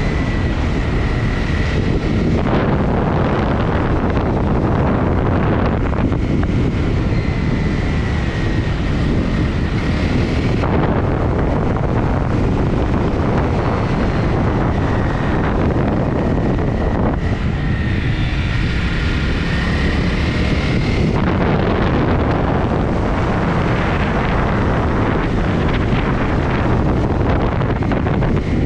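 Honda CRF250 motorcycle riding along, its 250 cc single-cylinder four-stroke engine running steadily under heavy wind noise on the microphone.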